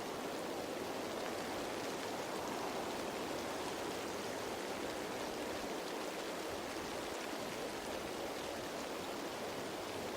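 Steady rain falling on leaves: an even, unbroken wash of many small drops.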